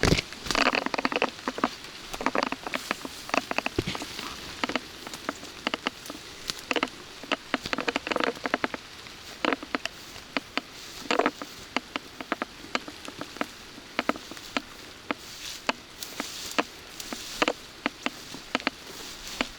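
Rain falling, with irregular close raindrops pattering in sharp ticks of varied loudness, several a second.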